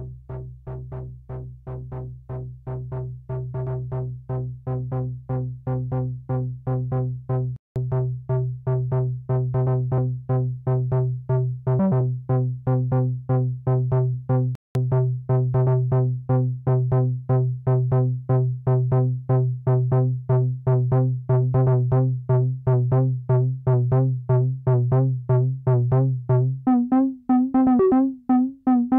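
Malekko Manther analog synthesizer playing a fast sequenced bassline of about four notes a second on one low note, growing louder over the first few seconds. It cuts out for an instant twice, and near the end the sequence moves up to higher notes.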